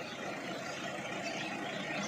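Sonalika tractor engine running steadily while it churns a wet paddy field into mud.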